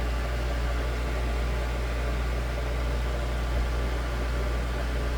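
Holmes Blizzard 9-inch table fan with a C-frame shaded-pole motor running on high speed: a steady rush of air with a low rumble and a constant motor hum.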